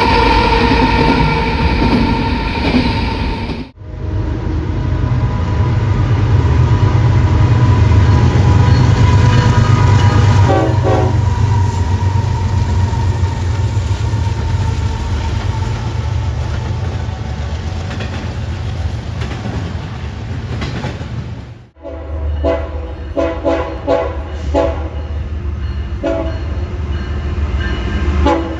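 Trains passing in a series of edited clips. First a train horn holds a steady chord. Then comes the heavy rumble of a passing train with a few short horn toots, and finally a run of short repeated horn or bell notes; the sound cuts off abruptly twice between clips.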